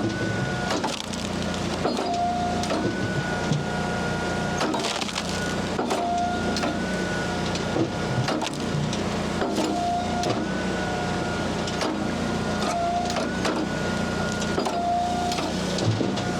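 Hydraulic log splitter running steadily, its hydraulics whining in spurts every couple of seconds as the wedge cycles, with sharp cracks and crunches of sweet gum and maple rounds splitting.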